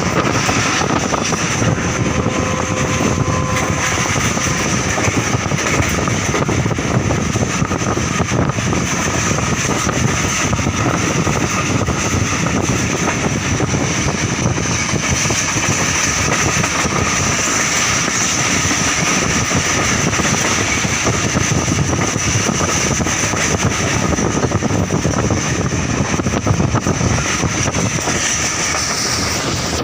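Passenger train running: a steady rumbling, rushing noise with a steady high whine over it.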